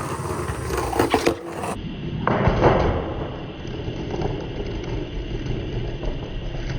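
Skateboard wheels rolling on concrete with a steady rumble, and a couple of sharp knocks about two and a half seconds in.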